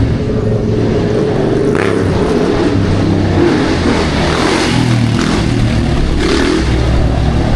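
A car engine running loud and being revved, its pitch stepping up and down. There are short hissing surges about two, four and a half, and six seconds in.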